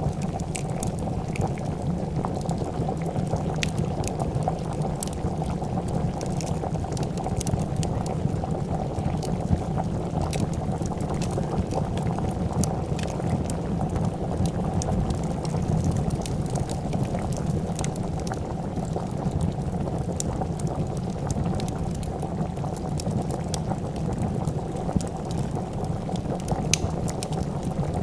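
A pot of soup at a steady rolling boil, bubbling continuously, with sparse sharp pops and crackles from a wood fire scattered over it.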